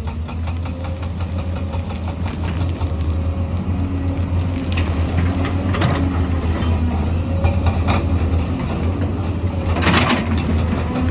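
Heavy diesel engine of an excavator running steadily, with a few short knocks or scrapes, the loudest about ten seconds in.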